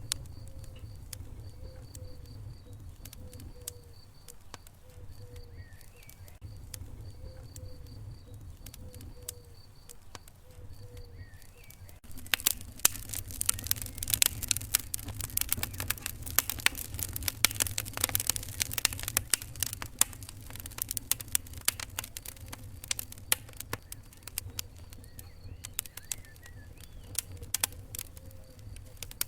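Wood fire crackling in a fireplace: scattered sharp pops over a low steady rumble, turning into a dense run of louder crackles from a little before the middle until near the end.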